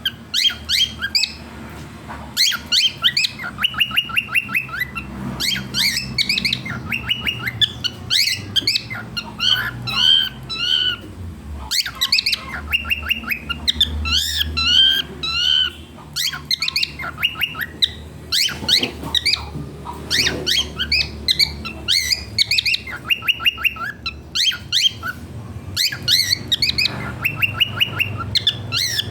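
Cockatiel chirping and calling in quick repeated series of short notes, in bursts with brief pauses.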